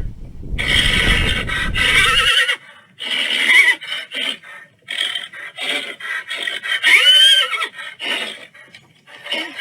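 Horse whinnying over and over: a long, quavering whinny in the first couple of seconds, then a string of shorter neighs, one rising and falling in pitch. A low rumble underneath stops abruptly after about two seconds.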